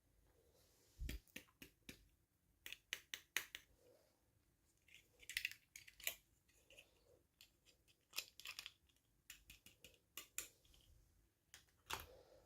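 Hands handling small plastic toys and packaging: quiet irregular clicks and taps with a few short crinkling rustles.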